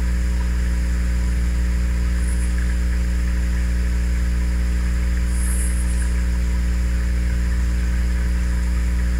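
Steady low hum with a constant hiss, unchanging throughout, with faint high chirps three times.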